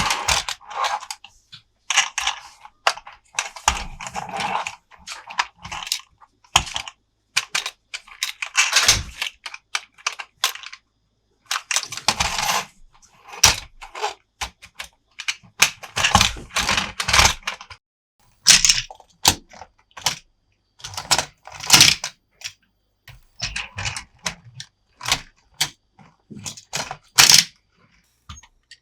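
Hard plastic toy parts being handled: clusters of clicks, taps and rattles in short bursts with brief silent pauses between them.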